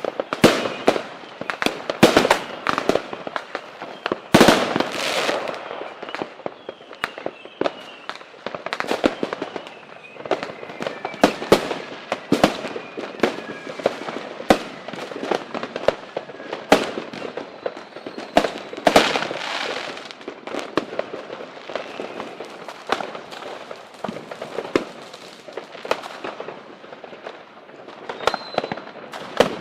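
Fireworks and firecrackers going off without a break: dense, irregular bangs and pops over a crackling haze, with a faint falling whistle in the first half.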